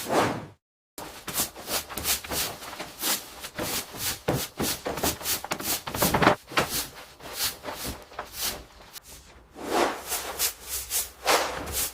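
Quick repeated rasping strokes of a stiff brush on a hard surface, starting about a second in, easing briefly and then stronger again near the end.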